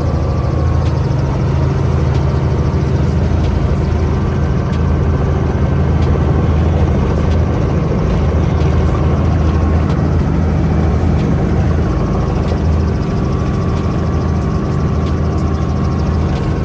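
Helicopter engine and rotor running with a steady, loud low drone.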